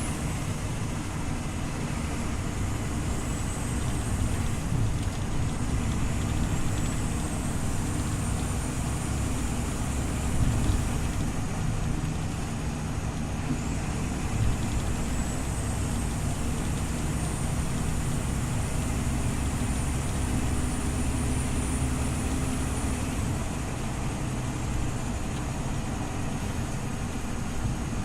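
Scania OmniLink CL94UB city bus running at a steady level, engine drone with road noise. A faint high whine rises and then holds, three times, as the bus pulls away and gathers speed.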